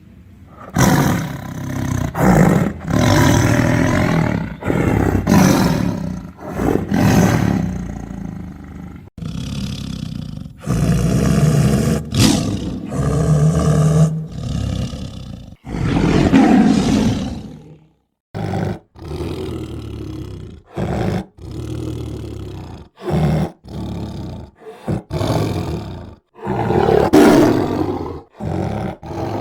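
Tiger roaring repeatedly, loud calls separated by short breaks. After a brief pause near the middle, shorter roars follow one after another in quick succession.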